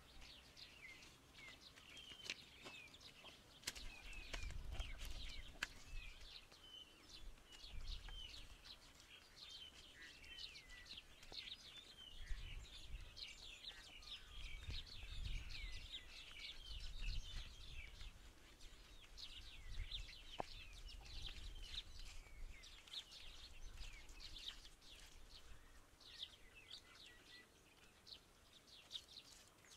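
Birds chirping steadily, with many quick high calls overlapping. Faint low rumbles swell and fade a few times.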